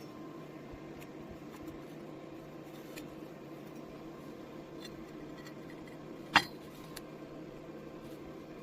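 A single sharp metallic clink with a brief ring a little past the middle, over a steady low hum and a few faint taps. It sounds like metal knocked against metal while steel stock or tools are being handled.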